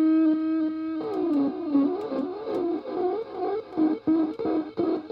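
Homemade feedback noise instrument howling with microphone feedback: a steady, distorted tone that about a second in breaks into a warbling, wobbling pitch with stuttering cut-outs, then settles on a higher steady tone near the end.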